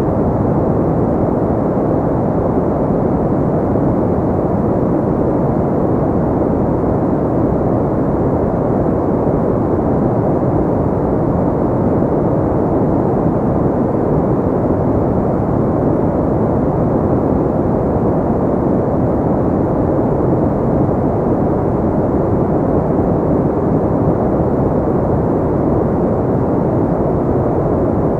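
Steady, unchanging noise of the kind played as sleep white noise, low and muffled, with its strength in the low and middle range and almost nothing in the treble.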